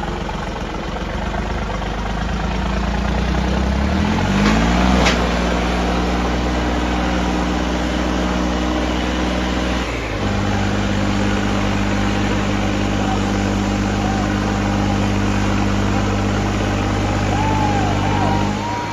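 Tractor diesel engines running steadily under load. The pitch climbs about four to five seconds in, then drops abruptly to a lower steady note about ten seconds in.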